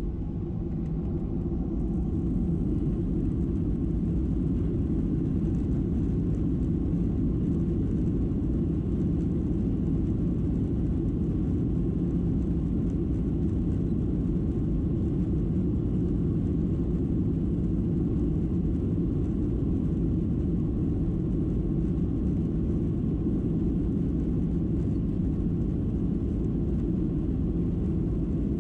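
Boeing 737-700 jet engines and airflow giving a steady, loud, low rumble that swells over the first couple of seconds and then holds level, as at takeoff or in the climb.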